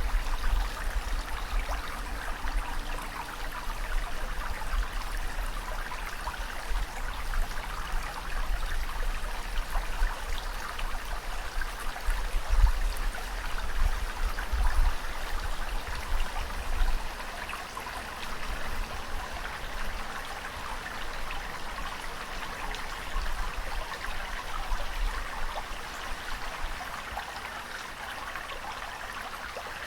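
Steady trickling and splashing of running water, with a low rumble that comes and goes during the first half.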